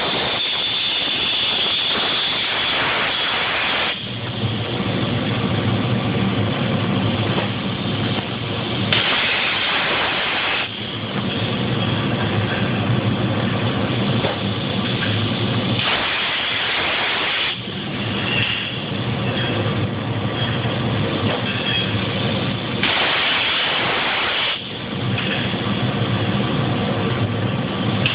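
Plasma cutter cutting steel: a steady harsh hiss over a low hum, with the hiss surging louder for a second or two three times.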